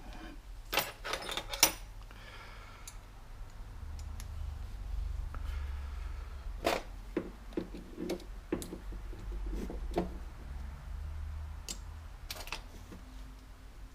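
Scattered light clicks and knocks of small metal tools being handled while a smaller diamond burr is changed on the grinder, over a low steady hum.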